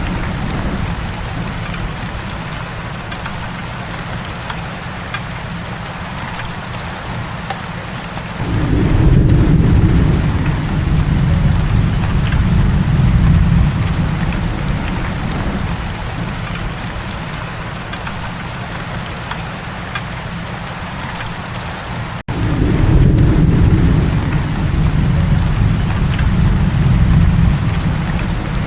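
Heavy rain hissing steadily. Deep rolling thunder swells in about eight seconds in and fades, then swells again just after a split-second dropout about twenty-two seconds in.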